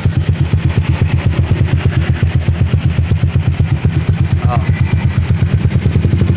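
Yamaha MX150's single-cylinder four-stroke engine, fitted with an UMA racing cam and wide valves, running steadily at low speed through a Proliner SV aftermarket exhaust, a fast even train of deep exhaust pulses.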